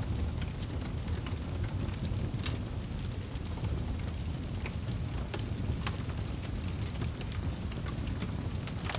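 Wood fire burning in a fireplace: a steady low rumble of the flames with irregular sharp crackles and pops of the burning firewood scattered throughout.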